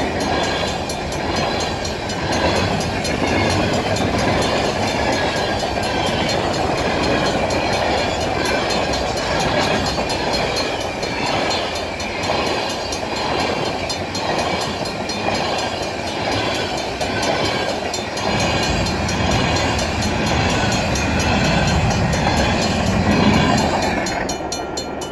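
Freight cars of a mixed manifest train rolling past at a grade crossing, the wheels rumbling and clacking over the rails, with the crossing bell ringing steadily above it. Near the end the last car passes, the rumble falls away, and the bell is left ringing.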